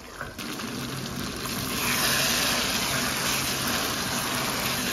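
Boneless chicken karahi masala sizzling in hot oil in a nonstick pan as it is stirred with a spatula, being fried down (bhuna) after yogurt has been added. The sizzle grows louder about one and a half seconds in and then holds steady.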